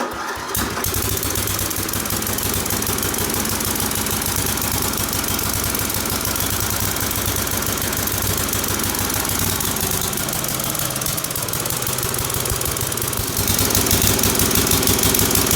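Dynamark riding mower's small gasoline engine, jump-started, catches within the first second and runs steadily, then gets louder near the end. The engine runs on a freshly rebuilt replacement carburetor, and the owner thinks it is running a little rich.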